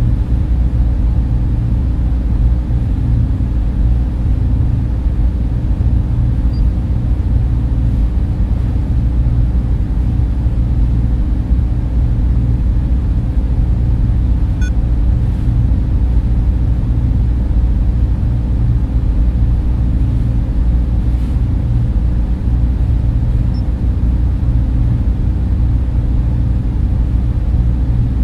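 Steady, deep rumble of a data center's server and cooling fans, with a faint hum in it.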